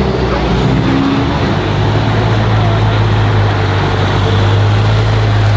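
Car engine idling close by, a steady low drone that shifts and grows stronger about a second and a half in, over general car-meet background noise.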